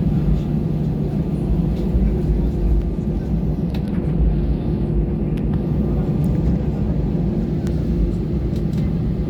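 Steady low rumble of an Airbus A320 cabin while the jet taxis on its engines, with a constant hum running through it.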